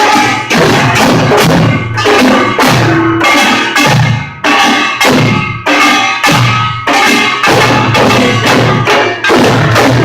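Korean pungmul percussion band playing a fast, driving rhythm of dense gong and drum strikes, loud and harsh through a poor phone microphone.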